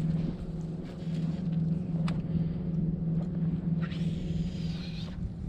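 Steady low drone of a boat engine running.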